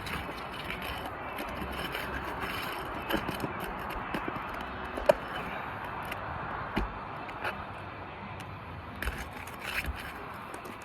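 Scattered scrapes and sharp clicks of asphalt shingles being lifted and their nails pried out, over a steady background hiss. The sharpest click comes about five seconds in.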